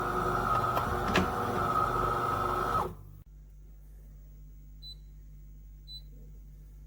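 De'Longhi Dinamica Plus espresso machine running with a steady hum while it dispenses a drink, stopping abruptly about three seconds in. It is followed by two short high beeps about a second apart and a click at the very end.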